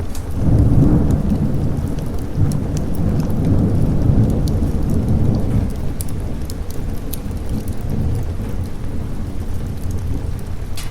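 Rolling thunder over steady rain: a low rumble that breaks about half a second in, swells again around four seconds and dies away. Sharp crackles of a fireplace fire pop through it.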